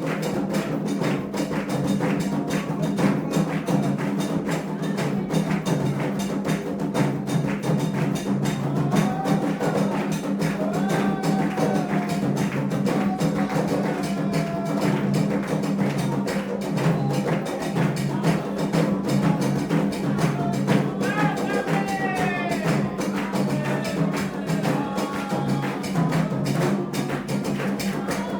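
Candomblé ritual drumming: a steady, fast hand-drum rhythm played without a break. Voices sing over it twice, around a third of the way in and again past two-thirds.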